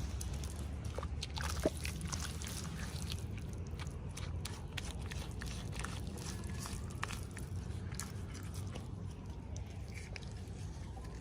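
Packaging being handled during an unboxing: scattered small clicks and crinkles over a steady low hum.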